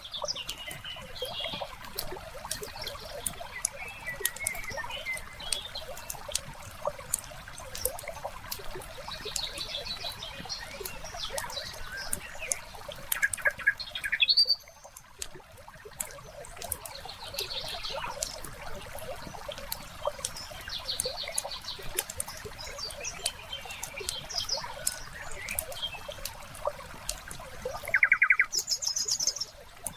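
Wood fire crackling with frequent small pops, layered with birds chirping in short repeated phrases and a soft trickle of water. One louder chirping trill comes near the end.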